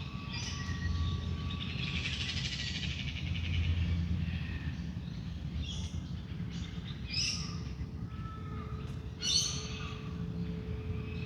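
Wild birds calling in a dawn chorus: short, harsh repeated calls and a rapid trill a couple of seconds in. Under them a soft singing bowl drones on one steady note, over a low background rumble.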